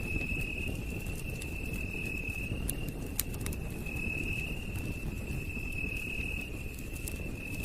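A campfire burns with a low crackle and occasional sharp pops, the loudest about three seconds in. Over it, a night insect trills steadily at a high pitch, in stretches of about a second each.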